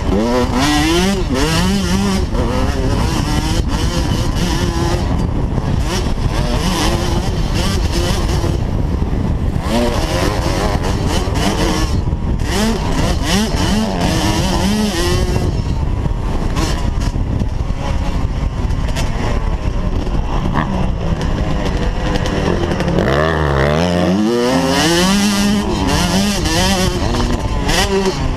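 Motocross dirt bike engines revving up and down, the pitch climbing and falling again and again as the bikes accelerate and back off. Near the end, one engine drops low and then revs up in a long climb.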